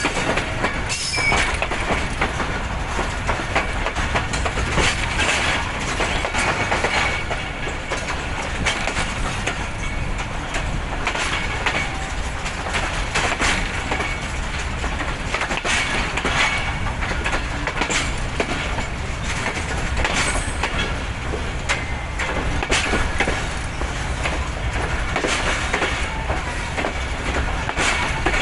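Passenger train coaches rolling on the rails: a steady running rumble with wheels clicking over rail joints, and a faint thin squeal from the wheels at times.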